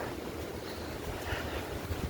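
Wind buffeting a phone's microphone: an uneven low rumble under a steady hiss.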